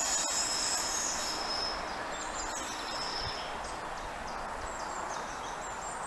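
Train wheels squealing on the rails as a train runs past. The high squeal fades out about two seconds in, leaving a steady rail rumble that slowly drops away.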